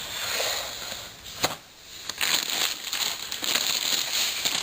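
Parts packaging being handled and opened, a crinkling rustle with one sharp click about one and a half seconds in.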